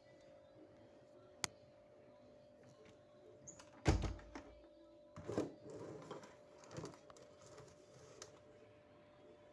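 A sharp click, then a heavy thump about four seconds in, followed by a few softer knocks and rustling, over a faint steady hum.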